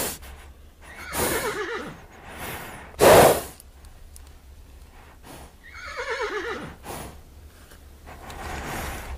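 Horse whinnying twice, each call quavering and falling in pitch, about a second in and again about six seconds in. Between the two calls, about three seconds in, comes a loud short snort.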